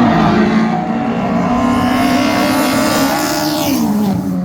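Car engine running hard and steady, its pitch falling near the end as it comes off the throttle.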